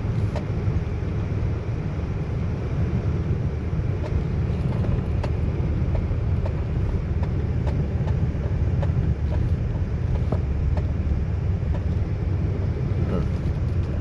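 Tow truck running on tire chains over a snowy road: a steady low drive rumble with scattered faint clicks.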